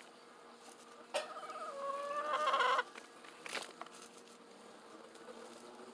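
Broody hen giving one long squawk about a second in, growing louder for about a second and a half before it breaks off. A single sharp click follows about a second later.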